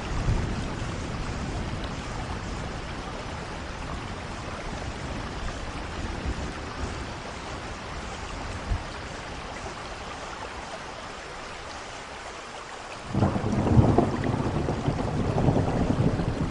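Steady rain with thunder. A low rumble of thunder dies away in the first seconds. About three-quarters of the way through, a louder rumble breaks in suddenly and rolls on.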